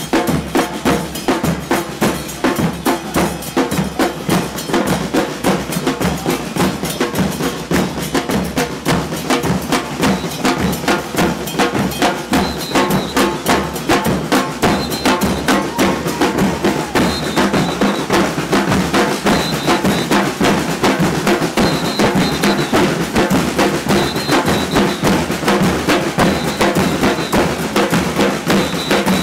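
Murga percussion band playing drums in a fast, steady, driving rhythm, with bass-drum and cymbal strikes under a snare.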